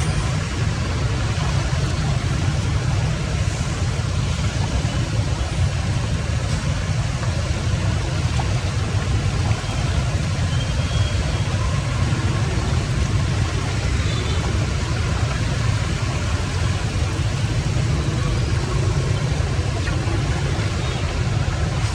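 Steady rushing water with a deep, even rumble, running without a break.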